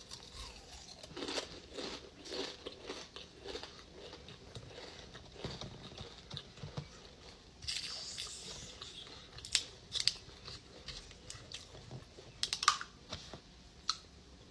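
A person chewing and biting into a chili dog close to the microphone: irregular wet smacks and crunches, with a short hiss about eight seconds in.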